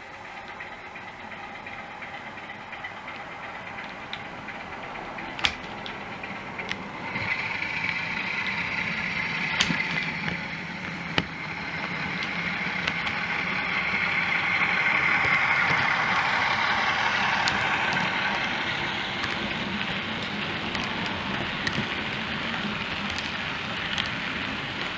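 Model railway locomotive's DCC sound decoder playing diesel engine sound as the train runs by, growing louder toward the middle and then fading a little, with a few sharp clicks along the way.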